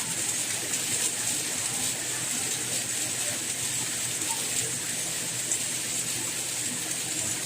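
Steady rainfall: an even hiss of rain with scattered drop ticks.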